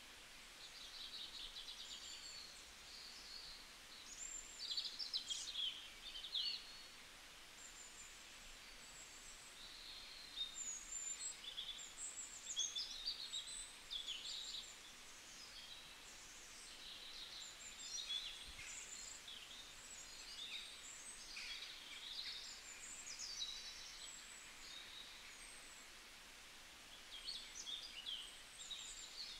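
Birds chirping and twittering faintly in irregular bursts of short, high calls.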